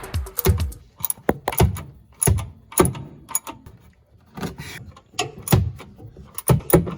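Irregular clanks and knocks of hand tools and metal working under a pickup truck near the oil drain plug, some landing with a dull thump.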